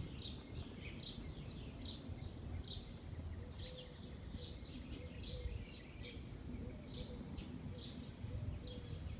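A bird repeating one short, high, falling chirp over and over at an even pace, about one every two-thirds of a second, over a low outdoor background rumble.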